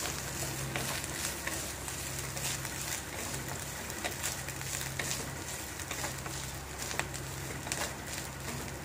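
Cashews, almonds and grated coconut frying in ghee in a kadai, with a soft sizzle and fine crackling while a wooden spatula stirs and scrapes them around the pan. A steady low hum runs underneath.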